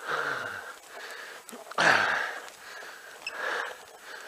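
A cyclist breathing hard while straining up a steep climb, with a rhythm of heavy breaths and two low groans that fall in pitch, one at the start and a louder one about two seconds in.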